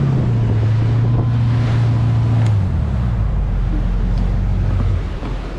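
Motorboat engine running with wind buffeting the microphone; its pitch drops about two and a half seconds in and it quietens near the end as the boat throttles back.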